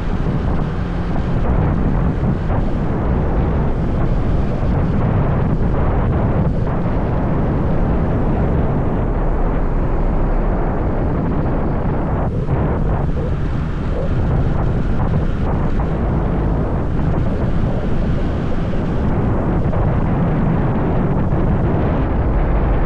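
Wind buffeting the microphone on a moving motorbike, with the ride's engine and road noise underneath: a loud, steady low rumble that never lets up.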